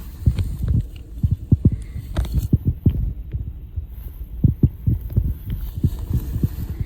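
Footsteps of people walking over rough ground, an irregular run of low thuds several times a second, with the carried camera bumping along.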